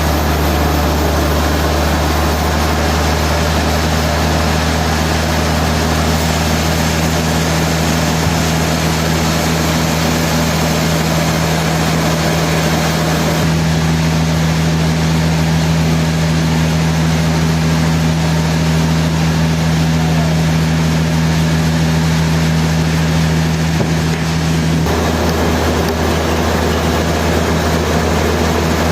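Heavy sawmill machinery running steadily with a loud low hum and a constant noise above it. The sound changes suddenly about halfway through and again near the end.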